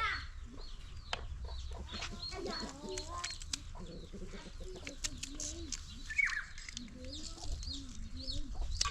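Domestic chickens clucking in short, wavering calls, with a high chirp about six seconds in and scattered sharp clicks and knocks throughout.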